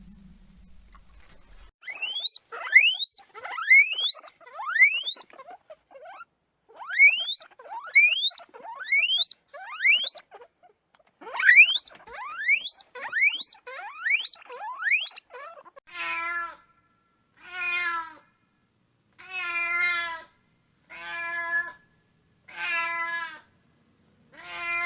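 A long run of short, very high rising chirps in quick groups of three or four, from a source that cannot be named. Then a domestic cat meows about seven times, each meow drawn out and wavering, one every second and a half or so.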